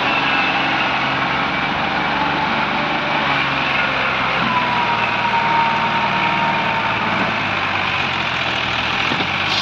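Massey Ferguson 260 tractor's diesel engine running steadily.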